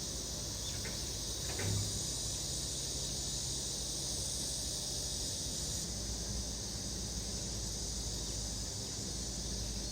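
Steady high-pitched insect chorus, with a brief low thump about two seconds in.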